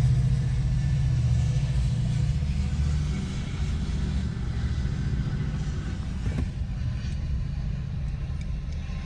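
A GO Transit commuter train pushed by an MP40 diesel locomotive passing, with a low rumble that fades a few seconds in as the train draws away.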